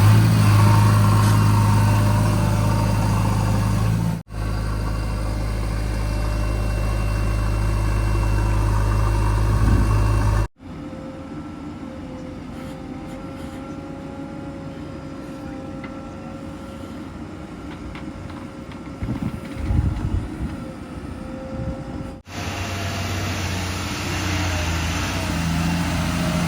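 Heavy diesel vehicle engines running steadily in several spliced clips, each starting and stopping with a sudden cut. The first clips have a loud, deep, even engine drone; the middle one is quieter, with a thin steady tone and a few knocks near its end; a loud engine returns near the end.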